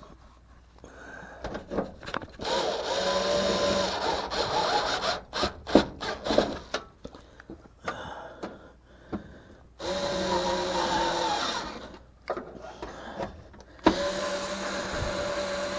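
Power drill driving screws in three runs of about two seconds each, with clicks and knocks from handling in between.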